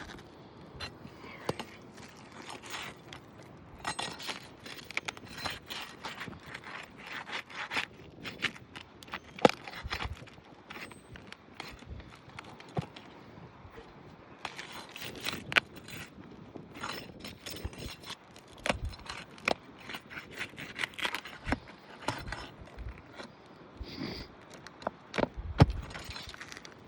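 Three-tab asphalt shingle being pried loose from its seal strip and removed: irregular scraping and crackling full of sharp clicks, with two louder snaps, about nine seconds in and near the end.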